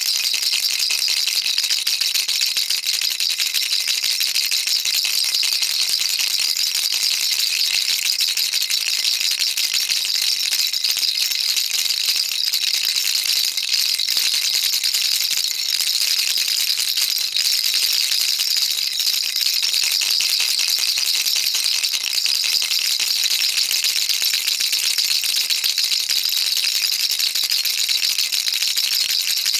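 Baby rattle shaken without pause: a dense, steady, high-pitched rattling of small beads inside, with no break.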